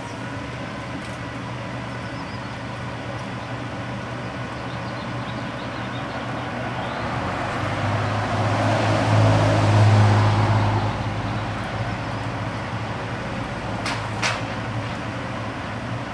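A road vehicle driving past: its engine and tyre noise swells to a peak about ten seconds in, then fades, over a steady low hum. A brief sharp sound comes near the end.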